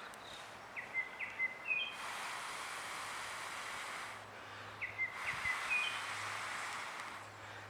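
A songbird sings a short phrase of quick chirps twice, about four seconds apart, over a steady outdoor hiss.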